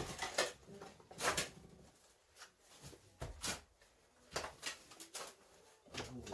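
Scattered light knocks and scrapes, irregular and a second or so apart, of rubble and tools being handled while an old house wall is demolished.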